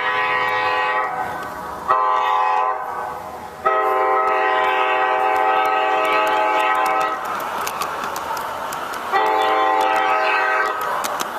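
Garden-scale model train's horn sounding a series of blasts: the end of one blast, a short blast about two seconds in, a long blast of about three and a half seconds, and a shorter one near the end, with faint clicking between.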